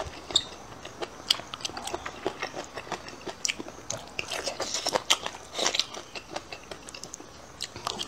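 Close-miked mouth sounds of someone chewing and biting stir-fried boneless chicken feet: an irregular run of wet smacks and crunchy clicks.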